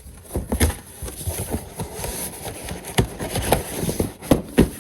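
Irregular knocking and clattering of boxes and packaged items being handled and moved, with a few sharper knocks about three seconds in and twice near the end.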